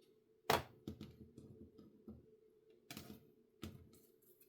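A few sharp clicks and taps as craft pieces and tools are handled on a tabletop. The loudest comes about half a second in, and others come about a second in and near the end.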